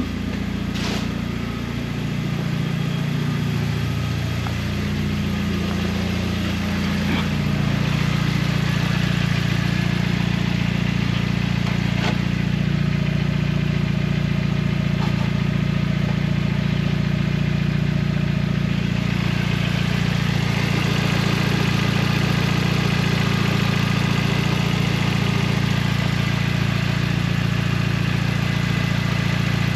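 Audi TT Mk2's turbocharged four-cylinder TFSI engine idling through a freshly fitted Scorpion downpipe and 3-inch exhaust, just started for a leak check. The idle wavers for the first several seconds, then settles to a steady note.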